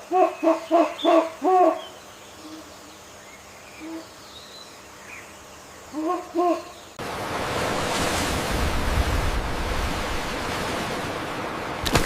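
An animal giving a quick run of short hooting calls, each with a small rise and fall in pitch, and two more a few seconds later. About seven seconds in, it gives way to a steady rushing noise.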